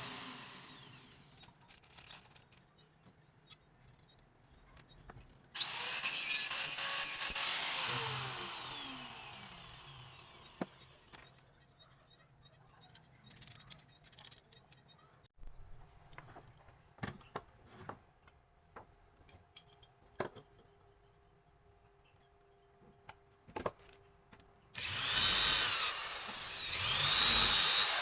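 A handheld power tool working wood, run in two bursts: one about five seconds in that winds down with a falling whine, another starting near the end. Faint taps and knocks of handling between them.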